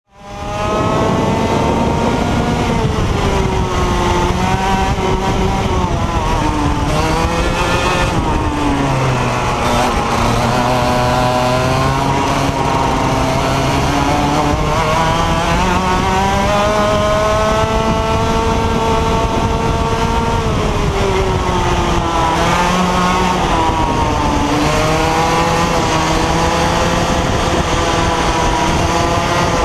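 IAME X30 125cc two-stroke kart engine running continuously, its pitch climbing and dropping every few seconds as the revs rise and fall.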